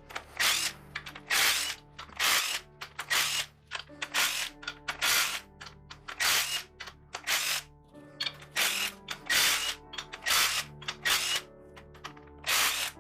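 Hand ratchet wrench being worked back and forth to loosen bolts, giving short bursts of pawl clicking about one to two strokes a second, with soft background music underneath.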